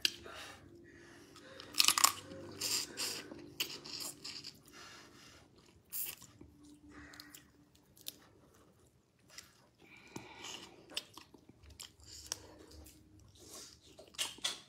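Close-up eating sounds: seafood from fisherman soup being chewed and bitten, a run of crunches and wet mouth clicks that comes and goes, loudest about two seconds in.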